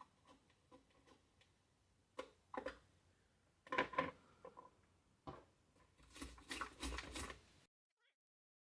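Scattered clicks and knocks of a Magic Bullet blender's plastic base and small tools being handled, with a busier clatter about six seconds in.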